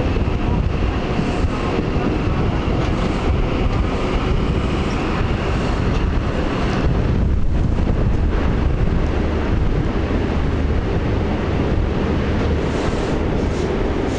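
High Speed Train with Paxman VP185-engined Class 43 power cars running at speed, heard from an open window: steady rushing wind on the microphone over the rumble of the train. About halfway through it enters a tunnel, and the sound closes in and grows a little louder.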